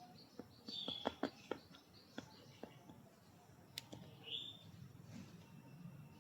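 A small pet bird giving a few short high chirps, with a rising chirp a little after four seconds in. A quick run of sharp clicks comes about a second in.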